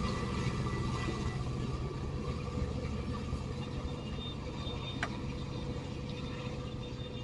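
Metra diesel commuter train rumbling, with a steady low hum, slowly fading; one faint click about five seconds in.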